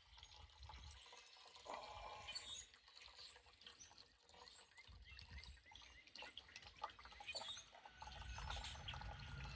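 Stale gasoline and two-stroke oil mix trickling and dripping faintly out of a small generator's fuel tank into a drain pan.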